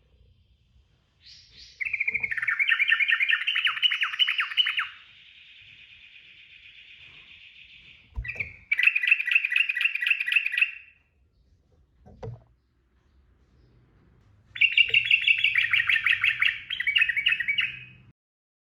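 Yellow-vented bulbul (trucukan) singing three rapid, bubbly bursts of song, each a few seconds long, with a fainter drawn-out note between the first two.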